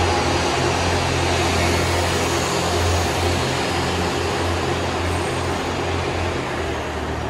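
Train running along the station platform: a steady rumble with a low hum, beginning to fade near the end as it moves away.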